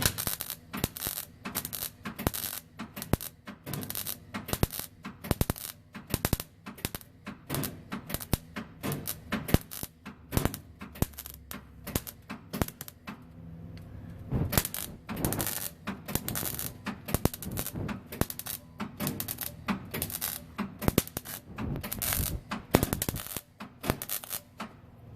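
Electric welding arc crackling and spitting in dense, irregular runs, with a couple of short pauses, as a hole burnt through a thin exhaust pipe is being filled with weld.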